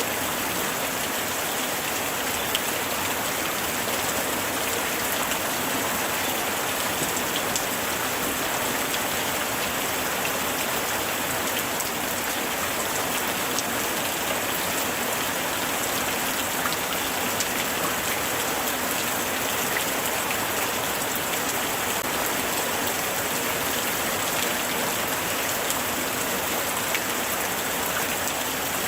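Steady light rain falling, a constant hiss of drops with scattered individual drop ticks.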